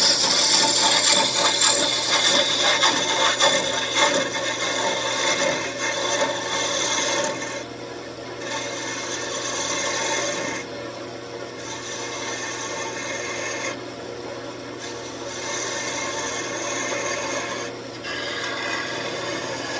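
Wood lathe running while a turning tool cuts into the spinning wood. The scraping cut stops for short breaks several times as the tool comes off the work, over a steady motor hum.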